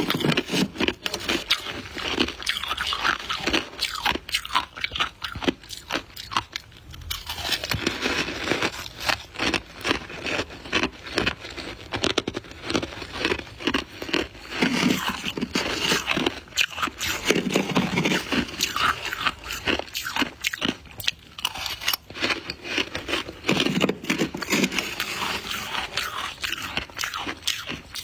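Soft white ice being bitten and chewed close to the microphone, a continuous run of crisp, crackly crunches.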